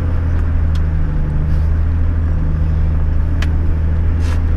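Toyota LandCruiser 105 Series engine running steadily at low, even revs, heard from inside the cabin while the truck crawls a rutted dirt track. A few brief faint ticks sit over the drone.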